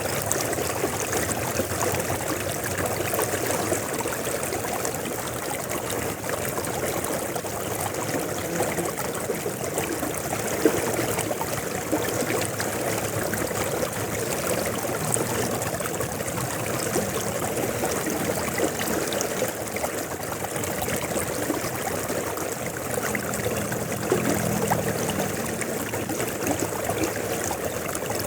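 River flowing, a steady rushing and gurgling of water.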